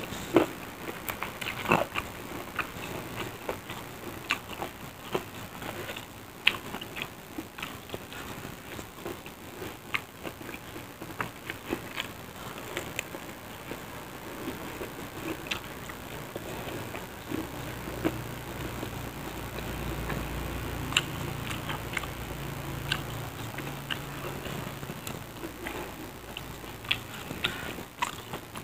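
Close-up chewing and lip-smacking of crispy fried tempe mendoan, with frequent short, sharp clicks of crunching and smacking. A low steady hum comes in for several seconds in the middle.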